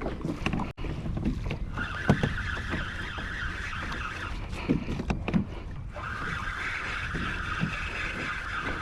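Fishing reel being cranked in, a steady gear whir in two stretches with a short pause between them, over low water and wind noise.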